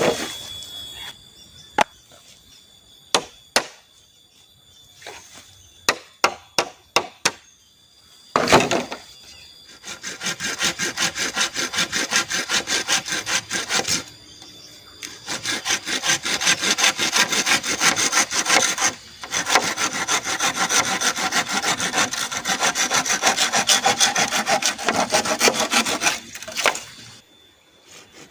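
Hand saw cutting through bamboo in quick, even back-and-forth strokes, pausing briefly twice before stopping. Before the sawing starts there are several sharp, scattered knocks.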